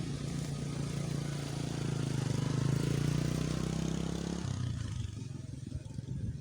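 Small motorcycle engine running steadily, its note dropping away suddenly about four and a half seconds in.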